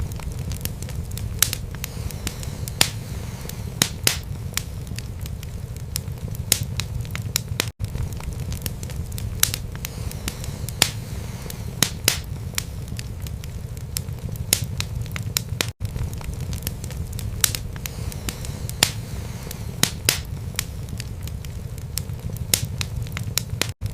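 Wood fire burning in a fireplace: irregular sharp crackles and pops over a steady low rumble of the flames. The sound cuts out for an instant about every eight seconds, where the recording loops.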